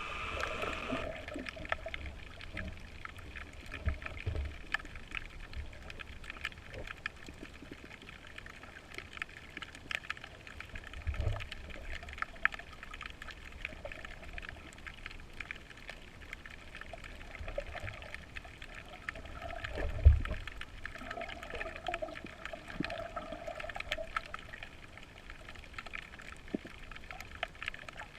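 Water moving and trickling, with many small irregular clicks and a few low thumps, the loudest about twenty seconds in. A steady hum at the start stops about a second in.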